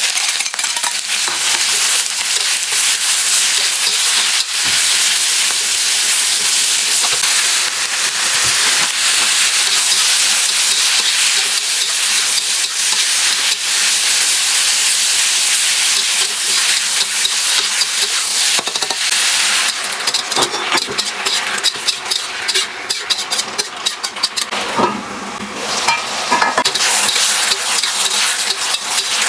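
Food sizzling and frying in a hot pan while being stir-fried, a dense hiss from the start. In the second half it turns to busy crackling and spitting, and the level dips briefly before rising again.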